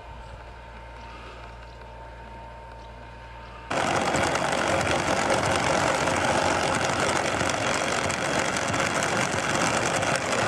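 A low, steady engine hum, then, about three and a half seconds in, an abrupt switch to a much louder, dense noise of heavy machinery running.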